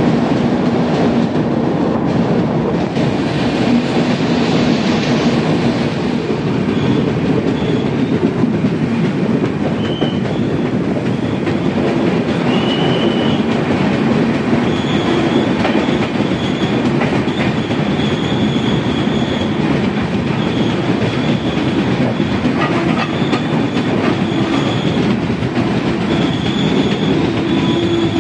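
Express passenger train running along the track: a steady rumble of the moving coach with the clickety-clack of wheels over rail joints. From about ten seconds in, a high-pitched wheel squeal comes and goes.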